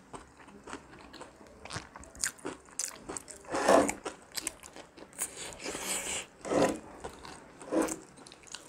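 Close-miked biting and chewing of fried-chicken Zinger-style burgers: soft, wet chewing with many small crackles, broken by several louder crunchy bites in the second half.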